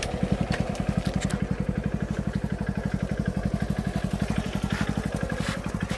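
Diesel engine of heavy equipment running close by, with a rapid, even, thudding beat of about a dozen pulses a second.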